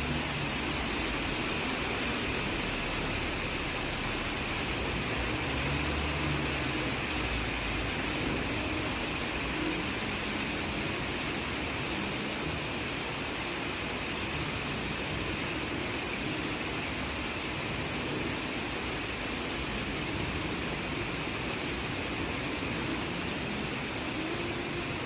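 Steady hiss of rain, even throughout, with faint low tones coming and going underneath.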